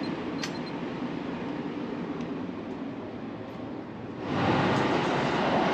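Running noise of the Sunrise Izumo/Seto sleeper train heard from inside the car: a steady rumble and hiss, with a short electronic beep from the compartment door's keypad lock about half a second in. About four seconds in the train noise grows clearly louder and stays up.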